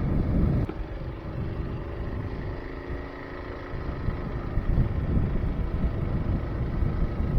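Trailmaster MB200 mini bike's single-cylinder four-stroke engine running during a ride, with wind rumble on the microphone. The engine eases off about a second in and picks back up from about four seconds.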